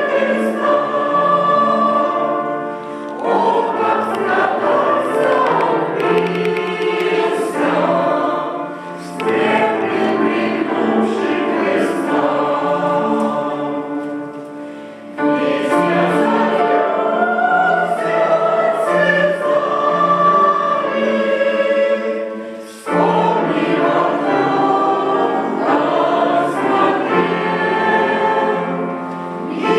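Church choir singing a hymn in several parts. The phrases break off briefly about every six to eight seconds.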